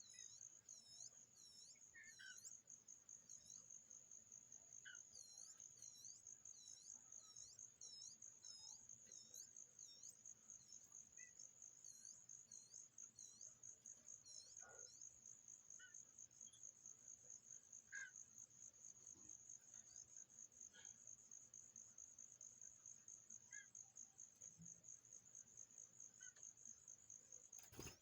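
Steady, high-pitched, rapidly pulsing chirring of an insect, with a run of quick swooping high chirps in the first few seconds and a few faint, scattered short chirps.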